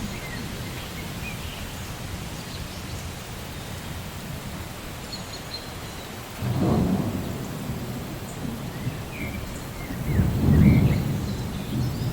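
Steady rainfall with thunder rumbling in twice, about six and ten seconds in, the second louder, and faint short bird chirps scattered over it.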